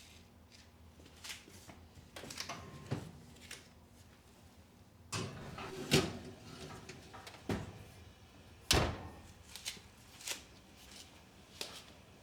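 Scattered knocks and clacks of things being handled in a kitchen, like drawers or cupboard doors shutting and items being set down, with two louder knocks about six and nine seconds in.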